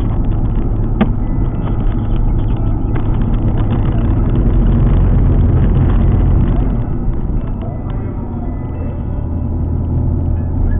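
Alfa Romeo 147 GTA's 3.2-litre V6 and its road noise while driving, a steady low drone. It swells a few seconds in, eases off about seven seconds in, and picks up again near the end. A single sharp click sounds about a second in.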